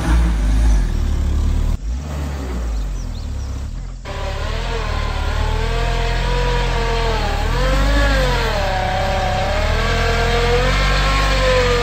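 Suzuki Jimny's 1.5-litre four-cylinder petrol engine revving while the car struggles for grip in mud in two-wheel drive. From about four seconds in, the engine note rises and falls again and again, which the driver takes for the traction control cutting power as the wheels slip; there are abrupt breaks in the sound about two and four seconds in.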